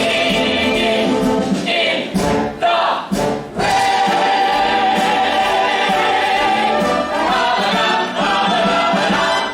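Stage-musical cast singing together with musical accompaniment. The music breaks off briefly about two to three seconds in, then the voices hold one long note.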